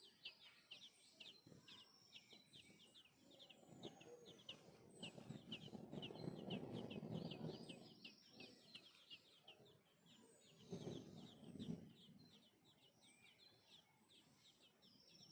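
Many small birds chirping rapidly and without a break, faint overall. A louder, lower sound swells in about four seconds in and comes back briefly near eleven seconds.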